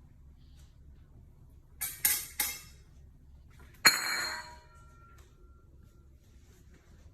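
Three quick scraping or rustling sounds, then a single sharp clink of something hard that rings briefly with several clear tones as it fades, over a faint low hum.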